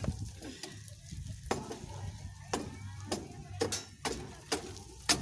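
A series of sharp, irregularly spaced metal clicks and light taps, about a dozen, roughly one every half second, from hand tools working on a motorcycle's rear sprocket hub.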